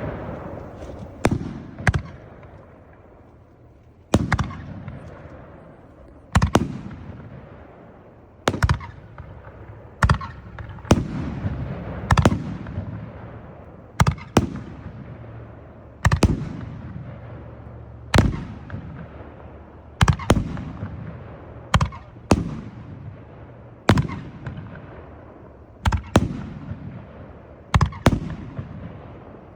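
A 25-shot firework cake with 3-inch bores firing its shells one after another. Sharp bangs come about every two seconds, some in quick pairs, and each trails off in a long echoing rumble.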